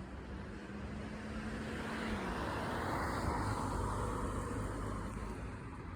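A vehicle passing by: its noise swells to a peak about halfway through and then fades away.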